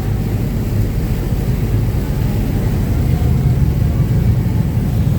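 Uber Boat river bus underway at speed: a steady, loud low drone from its engines, mixed with the rush of water and wind, heard from the open deck.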